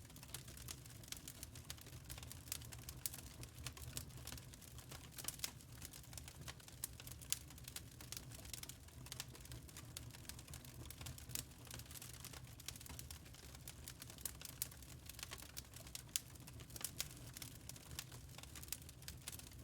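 Wood fire crackling in a fireplace: quiet, irregular snaps and pops over a low, steady rumble of burning.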